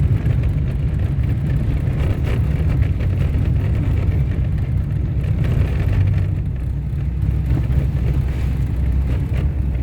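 Car driving along a dirt road: a steady low rumble of engine and tyres on the unpaved surface.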